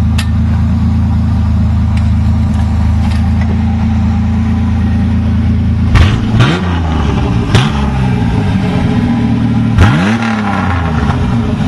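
An engine idling steadily, then revved in several quick throttle blips starting about halfway through.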